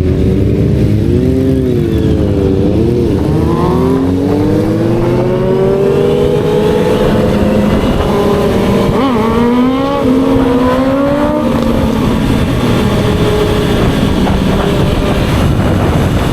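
Honda CBR650R's inline-four engine pulling on the road, its pitch bending up and down with the throttle. The pitch climbs steadily for several seconds, dips sharply once about nine seconds in, then falls away, all over a steady rush of wind noise.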